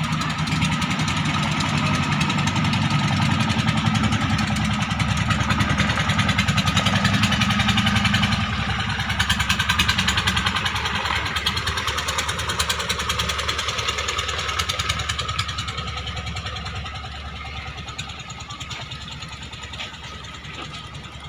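Klotok river boat's engine chugging steadily, loud at first and then fading away through the second half.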